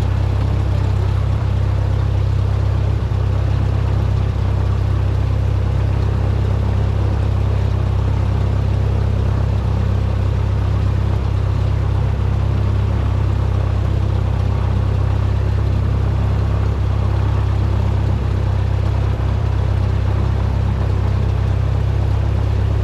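Cessna 172's piston engine and propeller running steadily, a constant low drone with no change in power.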